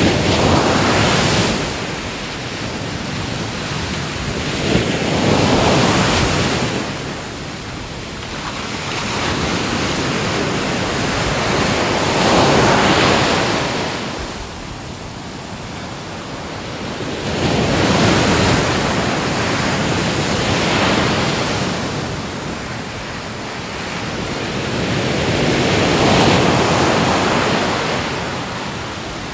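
Ocean waves breaking on a shore, each wash of surf swelling and fading about every six seconds.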